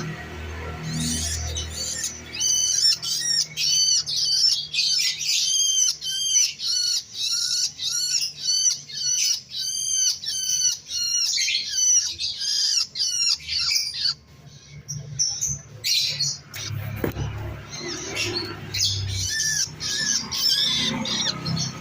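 Baby bird begging with rapid, repeated high squawking calls, about two a second, each rising and falling in pitch; the calls pause briefly about two-thirds of the way through, then start again. This is the begging of a hungry chick being fed.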